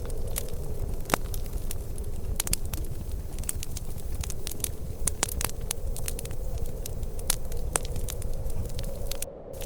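Wood fire crackling, with irregular sharp pops and snaps over a steady low rumble. The sound briefly dips near the end.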